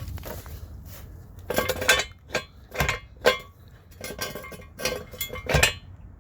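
Hydraulic floor jack being pumped under a car, each handle stroke giving a sharp metallic clink, roughly two a second, starting about one and a half seconds in.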